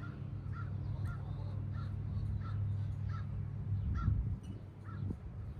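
A bird giving a steady run of short, harsh calls, about two to three a second, over a low steady rumble.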